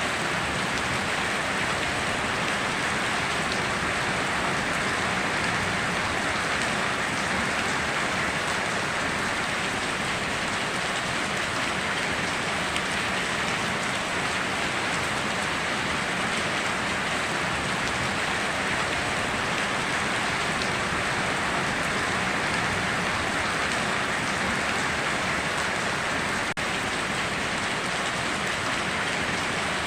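Steady heavy rain falling, an even unbroken hiss of drops with no thunder.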